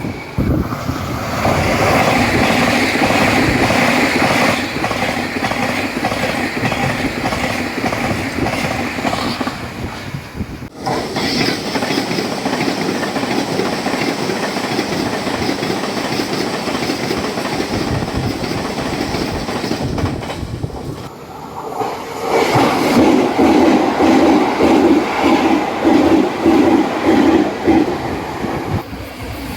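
Taiwan Railway trains passing at high speed, wheels clattering in a quick clickety-clack over jointed rail with fishplates. The sound breaks off abruptly about eleven and twenty-one seconds in, as three separate pass-bys follow one another, the last with a strong regular beat.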